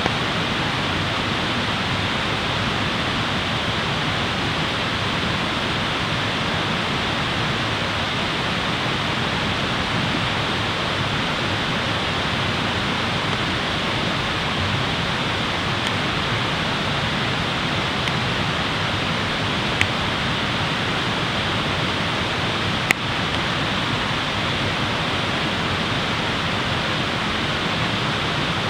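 Steady rushing noise of running water, like a mountain stream or waterfall, with two sharp clicks near the end.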